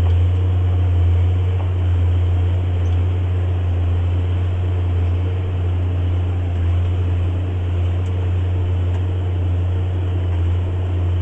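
JCB Fastrac 8250 tractor's engine running steadily under load while pulling a plough, a constant deep drone.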